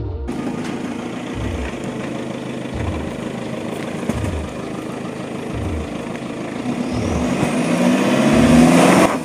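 Toyota Fortuner SUV's engine revving while its wheel spins on packed snow, the car stuck and unable to get grip. The revs climb and grow louder over the last couple of seconds, then stop suddenly. The steady low beat of background music runs underneath.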